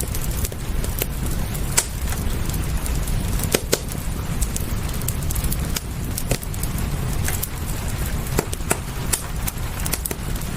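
Fireplace crackling, with sharp irregular pops and snaps over a steady rain hiss and a low rumble.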